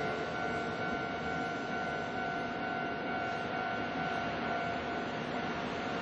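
Kintetsu Nara Line train running through the level crossing: a steady rushing rumble of wheels on rail, with the crossing's warning tones held steadily above it.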